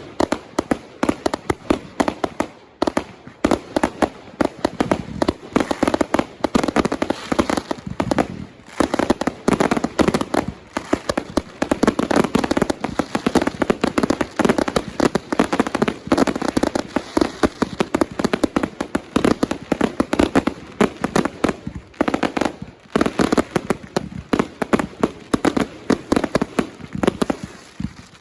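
Consumer fireworks going off in a dense, rapid string of sharp bangs and crackles, with brief lulls about three, eight and twenty-three seconds in.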